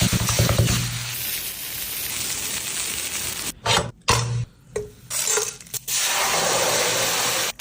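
Chicken frying in a pan: a steady sizzling hiss with clinks of metal utensils. The sound cuts off and restarts abruptly a few times.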